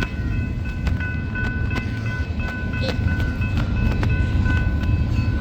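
Long freight train rolling past: a steady low rumble of wheels on rail, with repeated sharp clicks and a faint steady high ringing tone over it.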